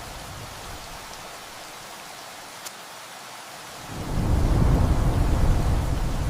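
Steady rain hiss, then about four seconds in a deep rumble of thunder swells up and stays loud over the rain.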